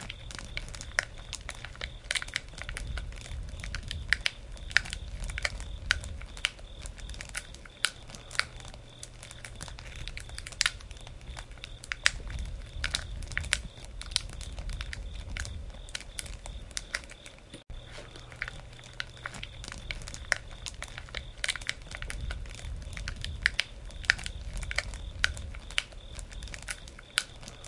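Wood campfire crackling, with sharp pops at irregular intervals over the low rumble of the burning fire.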